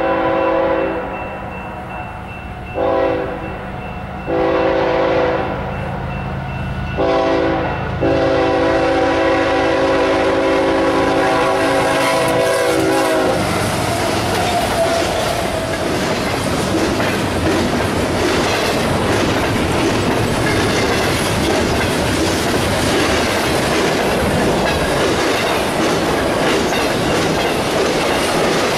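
BNSF freight locomotive's multi-tone air horn sounding a series of long and short blasts, the last held for about five seconds and cut off just as the locomotives go by. Then the rest of the intermodal train, trailers on flatcars, rolls past with a steady loud rumble and clickety-clack of wheels on the rails.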